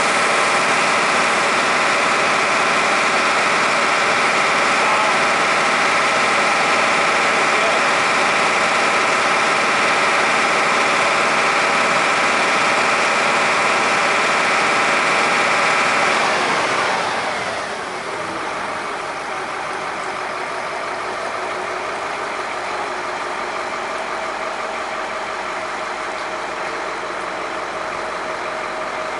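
1977 International fire engine's engine running fast to drive its water pump. About 16 s in it is throttled back, its pitch sliding down over a second or two, and it settles into a steady, quieter idle.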